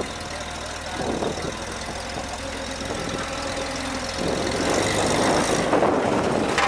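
Off-road vehicle engine running at low revs while rock crawling, growing louder and rougher about four seconds in.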